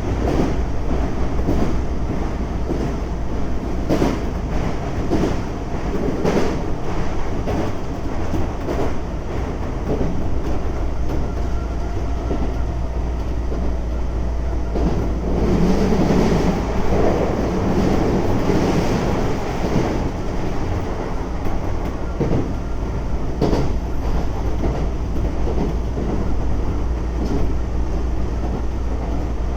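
Keisei 3400 series electric train running at speed, heard from inside the car: a steady rumble with irregular knocks as the wheels cross rail joints, growing louder and rougher for a few seconds in the middle.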